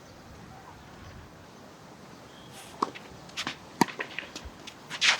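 Tennis ball being struck and bouncing on a hard court: two sharp knocks about a second apart, a little after halfway, with lighter shoe scuffs and clicks around them.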